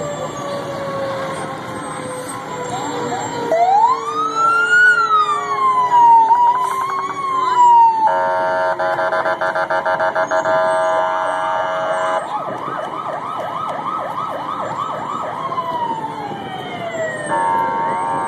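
Police vehicle sirens sounding in turn: slowly falling wails, a rise-and-fall wail, rapid yelping sweeps, and two spells of a steady, fast-fluttering horn-like blast.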